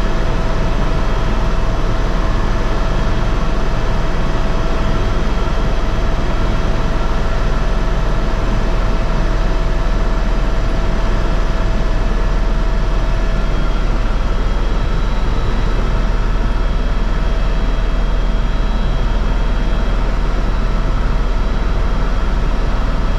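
Helicopter in flight: steady, loud rotor and engine noise with a deep rumble and a constant whine, unchanging throughout.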